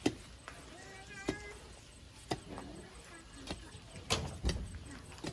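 Irregular sharp knocks, about six over five seconds, with faint wavering calls between them.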